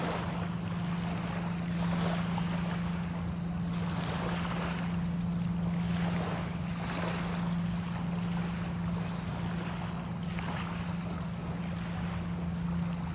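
Small bay waves washing in every couple of seconds, with wind, under a steady low hum.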